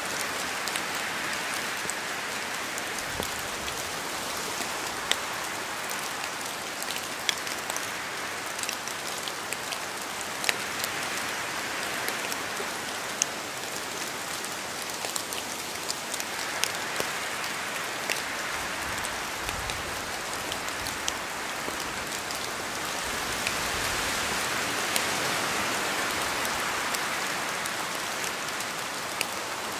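Steady rain falling, a dense hiss of rainfall with many separate drops ticking sharply on a surface. The rain swells and eases gently every several seconds.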